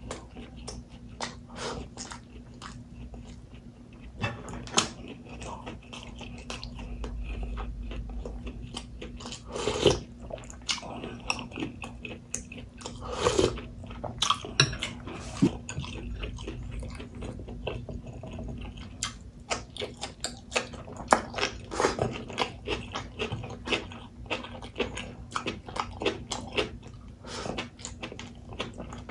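Close-miked eating: chewing and biting rice and pork, with wet mouth clicks and occasional crunches, over a steady low hum.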